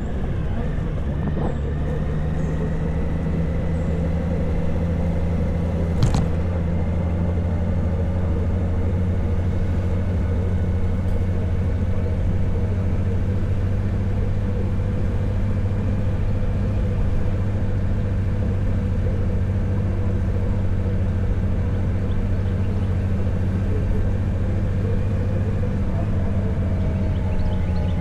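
Honda Gold Wing motorcycle cruising at a steady speed, its engine running at an even, unchanging pitch with wind and road noise. A single sharp click about six seconds in.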